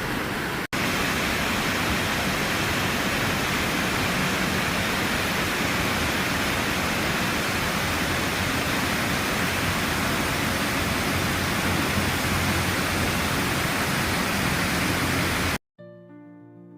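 Waterfall: a steady, even rush of falling water that cuts off suddenly near the end, where piano music begins.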